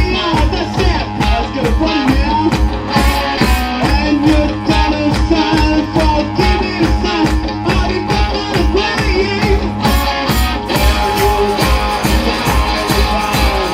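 Blues-rock band playing an instrumental passage: guitar over a steady, fast drum beat.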